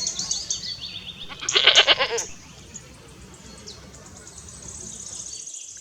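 Mountain goat bleating: a short high bleat at the start, then a louder bleat with a wavering pitch about a second and a half in.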